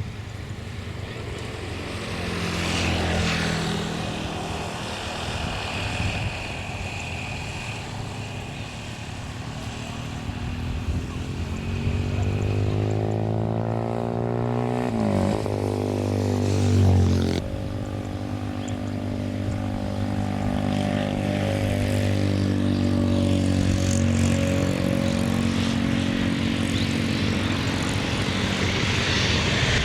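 Airliner engines running close by. Their tones slide in pitch and cross over about halfway through, then settle into a steady drone that grows louder toward the end.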